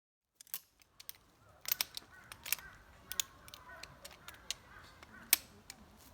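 A string of irregular sharp clicks and taps over faint background noise, starting about half a second in; the loudest is a single click about five seconds in.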